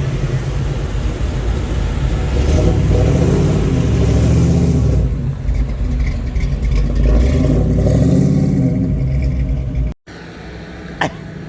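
Classic car's engine running as it drives in, its pitch rising and falling twice under light revving. It cuts off abruptly about ten seconds in, leaving a quieter background with a few sharp clicks near the end.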